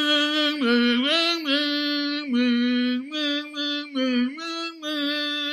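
A woman singing a simple tune in held notes that step up and down between two pitches, with short breaks between phrases. This is the golden bird's song in the story.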